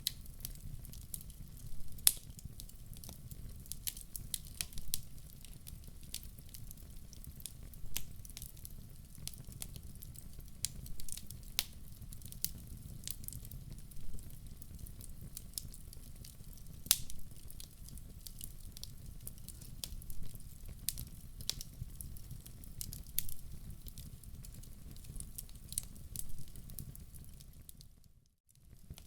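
Wood fire crackling in a fireplace: irregular sharp pops and snaps, a few at a time, over a steady low rumble of the flames. The sound drops out briefly just before the end.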